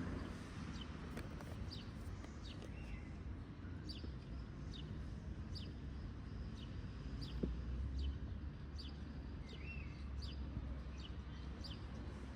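A small bird calling over and over: short, high chirps that drop in pitch, about two a second, over a low steady rumble.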